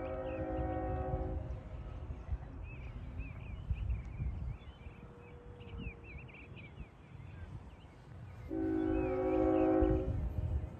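A horn sounding two long blasts of a steady chord of several notes, one at the start and one about eight and a half seconds in, with short high chirps between them and wind rumbling on the microphone.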